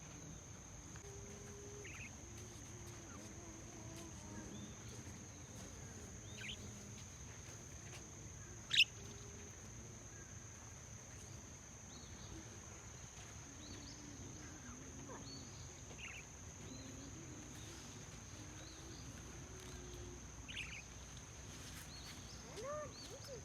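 A steady high-pitched insect drone with scattered short bird chirps over it. One louder, rising chirp comes about nine seconds in.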